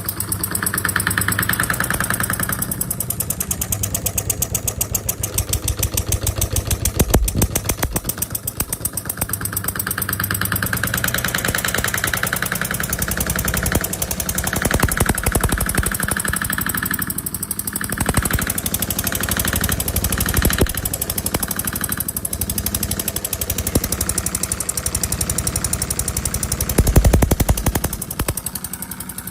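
Miniature D16 model diesel engine running, with a fast, even knocking beat that shifts in tone and loudness several times and grows louder briefly near the end.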